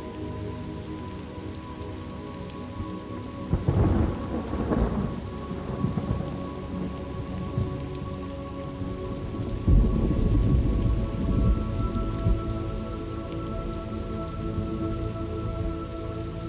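Thunderstorm ambience: steady rain falling, with thunder twice. A sharp clap comes about three and a half seconds in, and a longer, deeper rumble starts near ten seconds and rolls on for several seconds.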